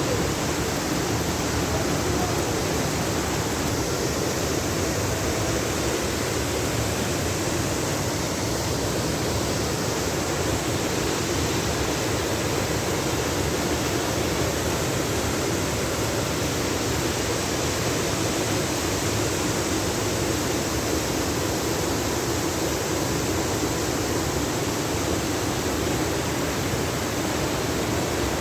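Heavy rain pouring down, a dense steady hiss with no breaks.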